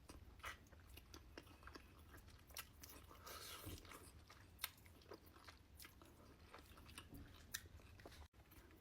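Quiet, close-miked eating sounds from a seafood boil mukbang: irregular wet clicks, smacks and small crunches of biting and chewing.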